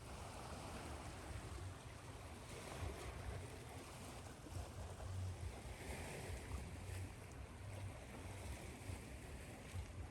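Ocean surf washing in, mixed with a steady hiss of white noise, over a low, uneven rumble.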